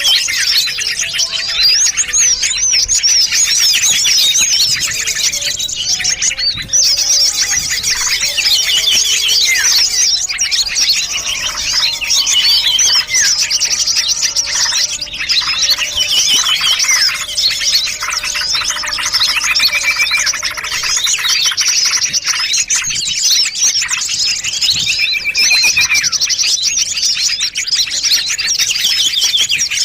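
A bird-lure recording of many small songbirds calling at once: a dense, unbroken chorus of high chirps, trills and quickly repeated notes.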